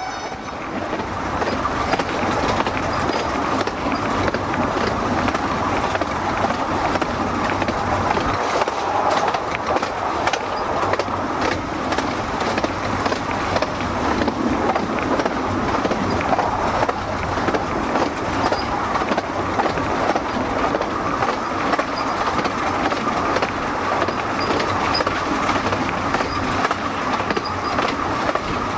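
Passenger coaches of a 15-inch gauge miniature railway running along the track, heard from on board: a steady rumble and rattle of wheels on rail, with frequent sharp clicks.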